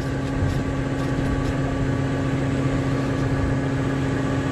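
Diesel engine idling steadily, an even low hum with a constant pitch.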